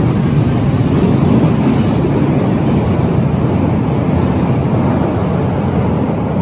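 Berlin U-Bahn large-profile train running on the track: a loud, steady rumble.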